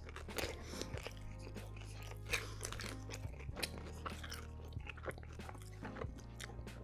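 A person biting and chewing a thin, crispy pepperoni pizza, with crunches of the crust again and again, over soft background music.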